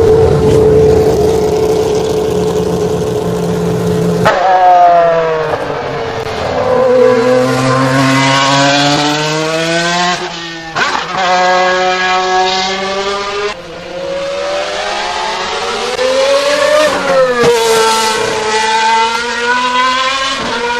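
Racing car engine at high revs, accelerating hard: the note climbs and then drops sharply at gear changes, about three times. In the first few seconds a steadier engine note is held before a cut to another shot.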